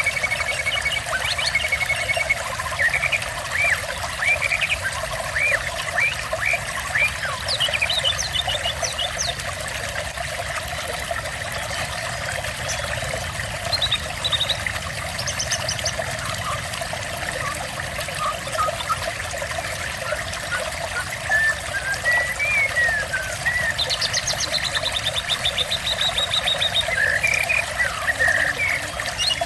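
Steady trickling, splashing water with small songbirds calling over it: scattered short chirps and whistles, and rapid high trills about eight seconds in and again near the end.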